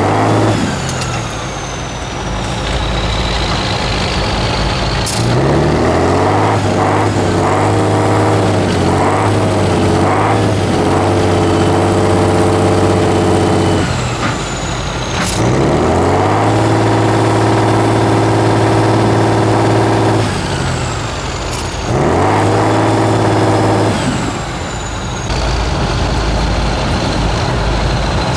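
Turbo-diesel engine of an 8x8 Tatra trial truck revving hard and holding high revs in three long spells, dropping back to a lower run between them, as the truck works under load through the obstacles. A faint high whistle falls away several times as the revs drop.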